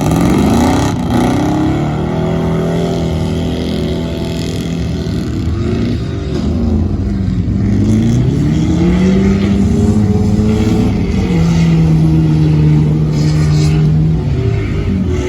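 Vehicle engine being driven hard. It revs up sharply at the start and holds at high revs, eases off and climbs again twice, then drops back near the end.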